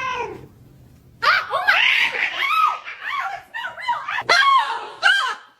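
A cat's drawn-out meow trails off at the start. About a second later a person bursts into hard, repeated laughter.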